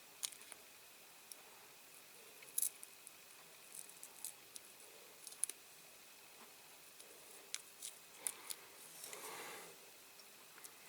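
Faint scattered clicks and small handling noises of masking tape being picked and peeled off the freshly painted body of a Dinky Toys diecast car, with a short rustle of tape pulling free about nine seconds in.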